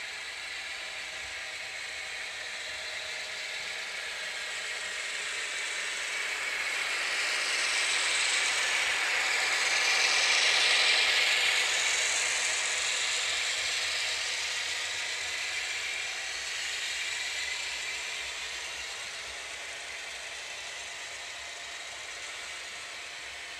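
A train passing on the rails, its wheel-and-rail noise building to its loudest about halfway through and then fading away.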